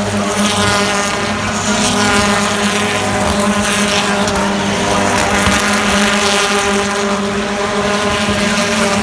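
British Touring Car Championship race cars running at speed past the track. Several engine notes overlap, their pitch rising and falling as cars go by.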